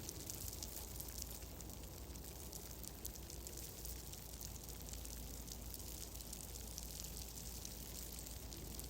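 Steady ambience of a crackling fire: many small, quick snaps over a low, even rumble.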